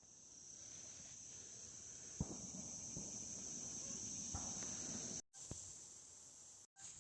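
Crickets chirping in a steady, high, unbroken chorus, with a couple of faint knocks about two and four seconds in.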